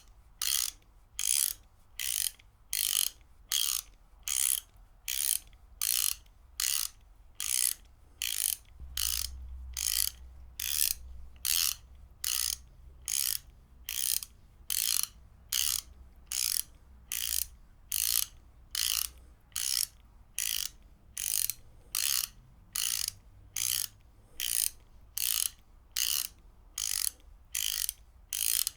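Ratchet wrench clicking in short, even bursts of rapid pawl clicks, about three bursts every two seconds, in a steady repeating rhythm.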